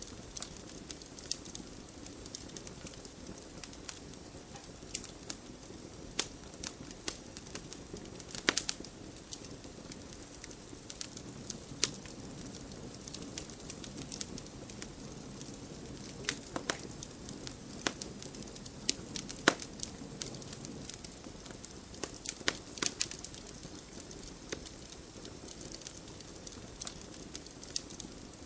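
Wood fire burning in a fireplace: a steady low rumble of flames with frequent sharp crackles and pops from the burning logs, a few louder pops standing out about a third and two-thirds of the way through.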